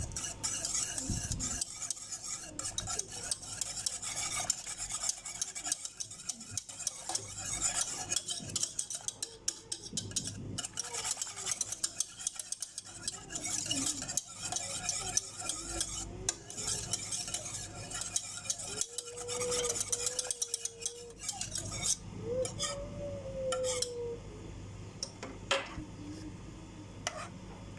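A utensil stirring a milk, sugar, maida and cornflour mixture in a saucepan, with continuous scraping and clicking against the pan, working out the lumps as the filling thickens.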